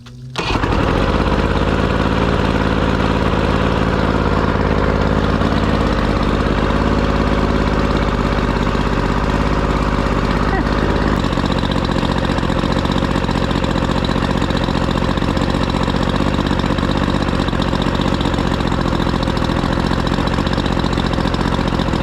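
Two-stroke outboard motor running steadily on cooling water from a hose. It comes in suddenly about half a second in. It runs fairly well but still needs minor adjustments.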